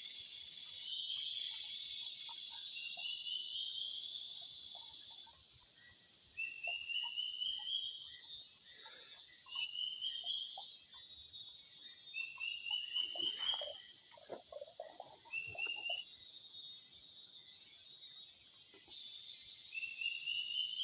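Forest insect chorus: a steady high-pitched shrill, with a short rising trill repeated about seven times.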